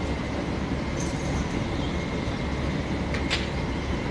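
Rail vehicle running along the track with a steady low rumble and a few sharp metallic clicks.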